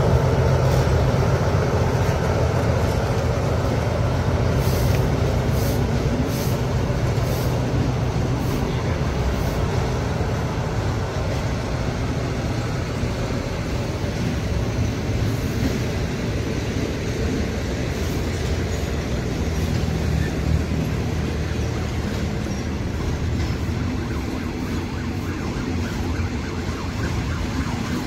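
Passenger train running along the line: a steady rumble of wheels and engine that eases off a little over the stretch.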